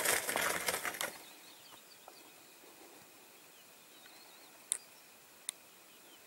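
Chukar partridge wings flapping rapidly and loudly, stopping about a second in. Faint chirps and two sharp clicks follow.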